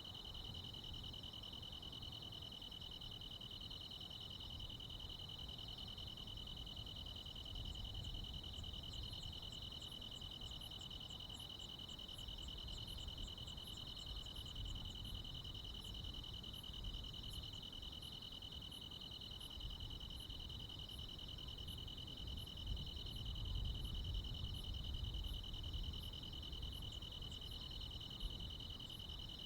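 A night chorus of crickets and other insects: a steady, unbroken high trill. About a quarter of the way in, a series of short, very high chirps joins it at about two a second. Under it runs a low rumble that swells about three-quarters of the way through.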